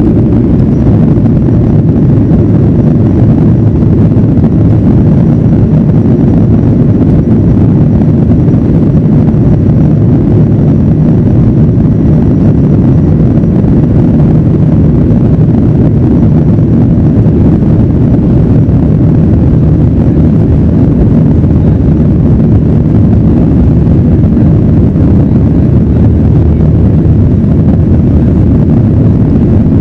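Boeing 737-900ER's CFM56-7B jet engines and airflow during takeoff: a loud, steady low rumble that holds unchanged throughout, with a faint thin high tone above it.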